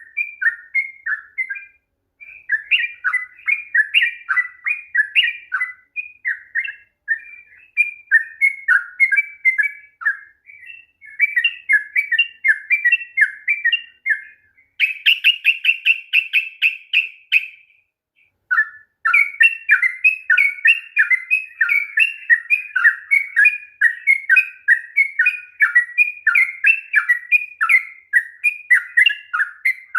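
Yellow-vented bulbul singing a long, rapid run of chattering song phrases. About fifteen seconds in, the phrases give way to a quick, even string of repeated notes for a few seconds, then the fast song resumes.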